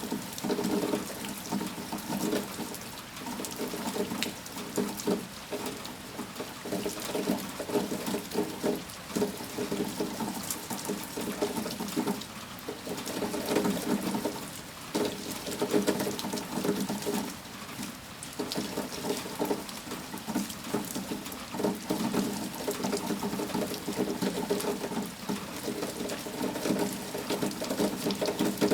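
Storm rain falling steadily and pattering on a hard surface, with splashing drops and a level that swells and eases every few seconds.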